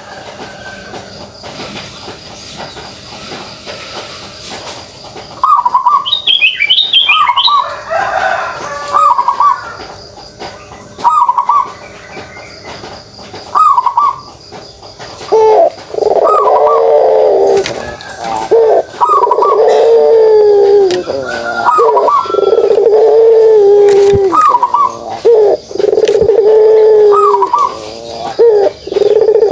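Puter pelung (domestic Barbary dove) giving its kugeruk coo, repeated over and over. It starts as short notes and from about halfway becomes long, drawn-out rolling coos, each introduced by a brief higher note.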